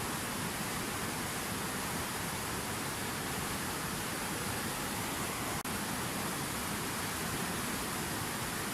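Water falling in a fountain waterfall, a steady, even rush that drops out for an instant about two-thirds of the way through.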